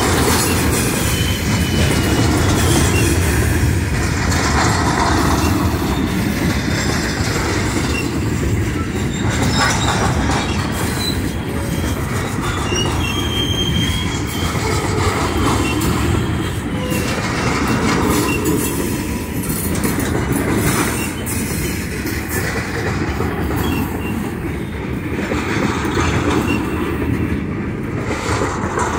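Iron ore hopper cars of a freight train rolling past close by: a steady rumble of steel wheels on rail, with short high wheel squeals now and then and some clacking over the rail joints.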